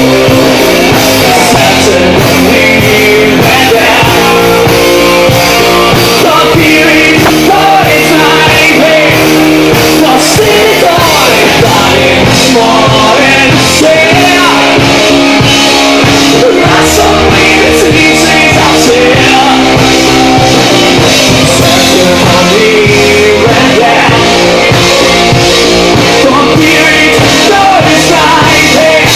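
Live rock band playing loud, with guitars, bass and a voice singing over them.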